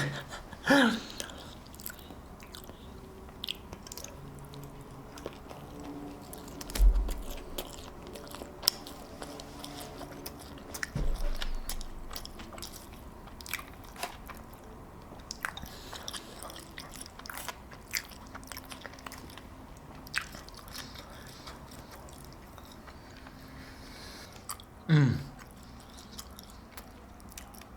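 Close-miked eating: a man chewing and biting fast food, with many small wet mouth clicks and a couple of dull low thumps. Two short vocal sounds, one just after the start and one near the end.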